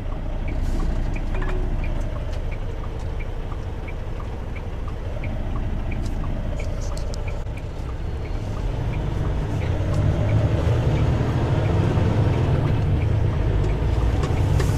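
A semi truck's diesel engine and road noise heard from inside the cab while driving, a low rumble that grows louder about two-thirds of the way through as the truck pulls harder. A light ticking about twice a second runs along with it.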